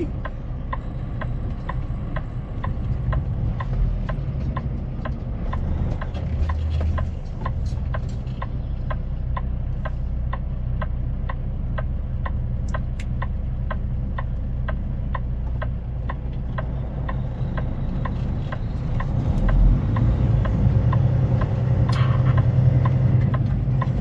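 Truck turn signal clicking about twice a second over the truck's engine running in the cab. Near the end the engine grows louder.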